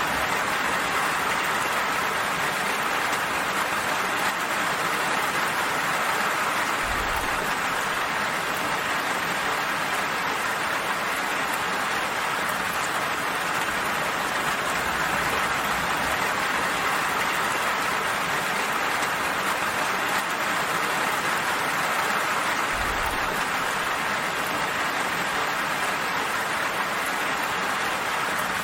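Steady rainfall, an even hiss of drops pattering on surfaces, unchanging throughout.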